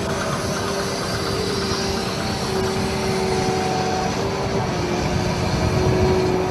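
Large excavator running, a steady heavy diesel rumble with a constant whine over it that drops slightly in pitch about two-thirds of the way through.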